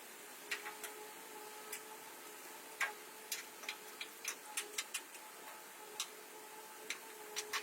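A dozen or so sharp, light clicks at uneven intervals over a faint steady hum.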